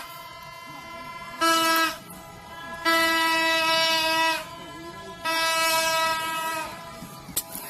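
A New Year's-style trumpet horn sounded in separate blasts to scare birds off a crop. Each blast holds one steady buzzing pitch: a short one, then two longer ones of about a second and a half.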